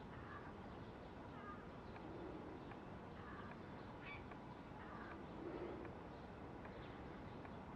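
Faint outdoor ambience: scattered short bird calls over a steady background hiss, with a few softer, lower calls now and then.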